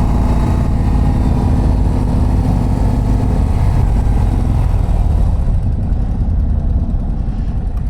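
The 2024 Harley-Davidson CVO ST's 121-cubic-inch V-twin engine running as the bike is ridden. It makes a steady low rumble, and its clearer engine note eases about three and a half seconds in.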